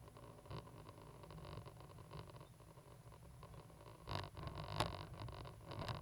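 Cat 320GC excavator's diesel engine running with a steady low rumble, with a few short scraping knocks about four seconds in and near the end.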